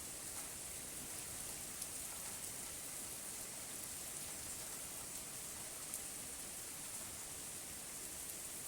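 Steady rainfall: an even hiss of rain with scattered individual drop ticks, and no thunder.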